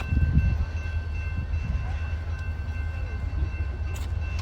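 Amtrak passenger train approaching the station: a steady low rumble with a few faint, steady high-pitched whines above it.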